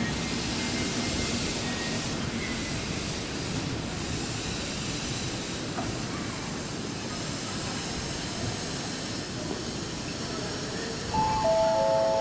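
Keisei Main Line electric train running through the station: a steady rushing and hissing of wheels and running gear. A few steady electronic tones at different pitches begin near the end.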